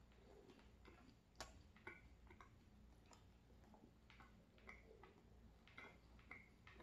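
Faint, close-miked chewing of a mouthful of pizza: soft, irregular wet mouth clicks and smacks, one sharper click about a second and a half in.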